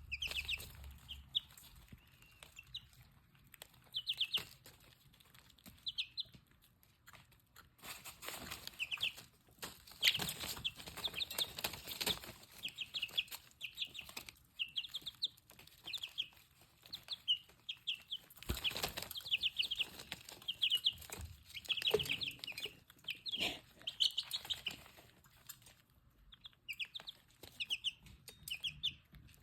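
Baby chicks peeping in quick runs of high chirps, with bursts of rustling and tapping among them.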